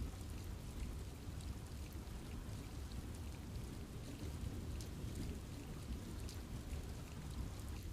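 Steady rain falling on forest trees, an even wash of noise with scattered sharp ticks of individual drops.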